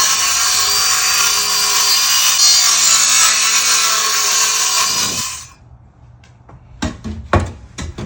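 Power saw cutting through wood steadily for about five seconds and then stopping, followed by a few sharp knocks.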